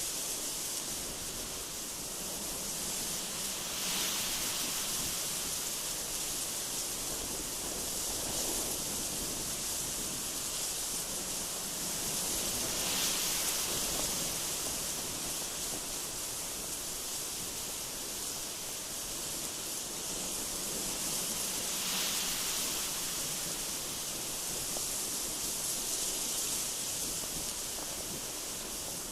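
Strong wind blowing steadily with a high hiss, swelling in gentle gusts every few seconds.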